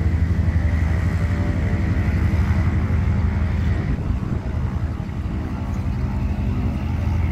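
Antonov An-2's nine-cylinder radial engine and propeller running with a loud, low drone. It eases off a little about four seconds in and picks up again near the end.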